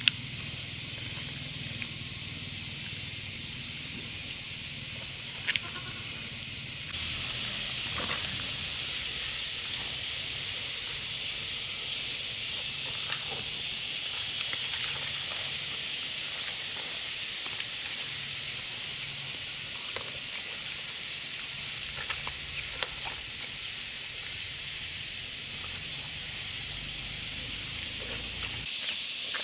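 Steady high-pitched insect chorus outdoors, louder from about seven seconds in, with a few faint knocks.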